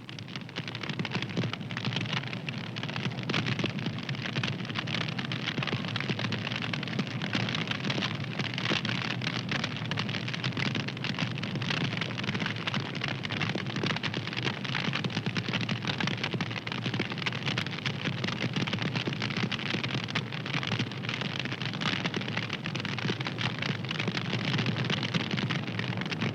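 Wood fire crackling steadily: a dense run of small snaps and crackles over a soft hiss.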